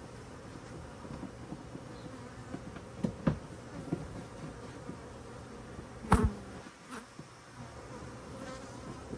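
A disturbed honeybee colony buzzing steadily as its hive is opened, the bees agitated and defensive. Two knocks sound over it, the louder one about six seconds in.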